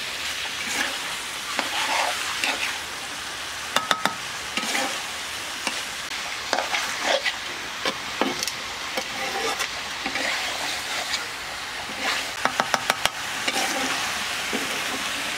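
Chicken pieces sizzling in spice paste in an iron kadai while a metal spatula stirs them, scraping and knocking against the pan, with a quick run of sharp knocks late on. The meat is being dry-fried (kosha) in its masala with no water added.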